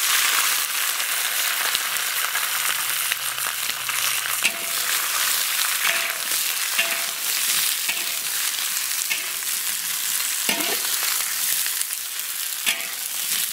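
Pieces of red bell pepper sizzling loudly in hot oil in an iron wok, stir-fried with a metal spatula that now and then scrapes the wok.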